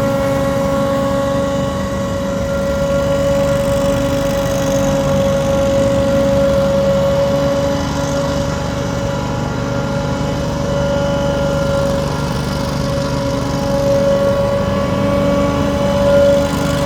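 Scag Windstorm ride-on debris blower running steadily, its 37 hp Briggs & Stratton Vanguard fuel-injected engine warming up, with a steady whine held over the engine sound.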